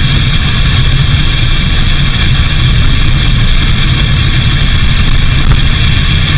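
A vehicle driving steadily: continuous low engine and road rumble with a constant hiss above it, unchanging throughout.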